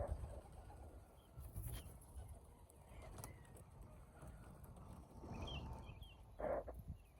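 Faint cooing of racing pigeons, with a louder call about six and a half seconds in, over a low rumble.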